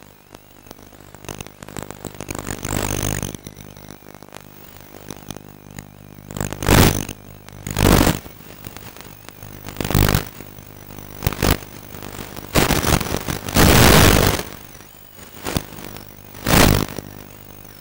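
Radio-controlled model aeroplane's motor heard from a camera on board in flight: a steady whine that wavers in pitch, broken about seven times by loud rushing bursts of half a second to a second and a half, the longest near the end.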